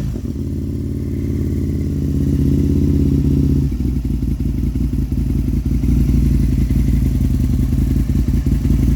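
Aprilia RSV 1000 Tuono's V-twin idling through an aftermarket exhaust. It settles from a slightly raised idle to a lower, lumpy idle about three and a half seconds in.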